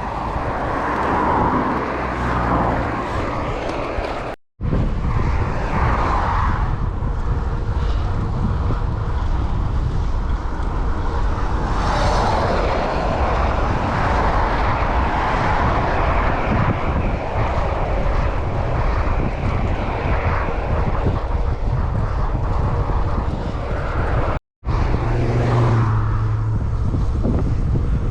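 Wind rumbling steadily on the microphone of a rider cycling along at speed. It breaks off into silence twice, briefly, about four seconds in and again near the end.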